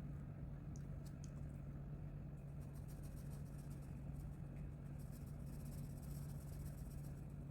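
Colouring tool scratching on paper in quick, rapid back-and-forth strokes, starting about two and a half seconds in after a few light taps. A steady low hum sits underneath.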